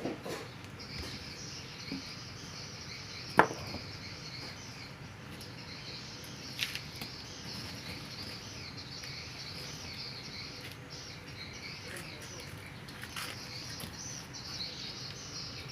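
Insects chirring steadily at a high pitch, with one sharp knock about three and a half seconds in and a few fainter ticks.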